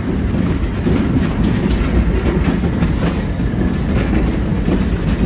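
Narrow-gauge Walhalla Goldfields Railway train running, heard from an open-sided carriage: a steady rumble of wheels on rails with scattered clicks and rattles.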